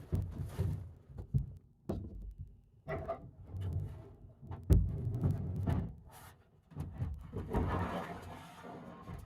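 Camping gear being handled and shifted as a camp stove is taken out: a series of dull knocks and thumps, one sharp click about halfway through, and rustling near the end.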